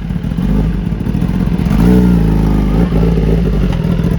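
Motorcycle engine running, with a brief rev that rises and falls about two seconds in.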